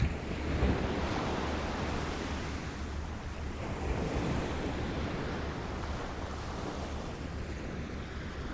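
Small waves lapping at the shore, a steady wash of water that swells at the start and again about four seconds in, over a low rumble of wind on the microphone.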